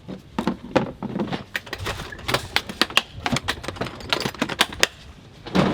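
Quick, irregular clicking and clattering of small hard objects being handled, with a louder rustling swell near the end.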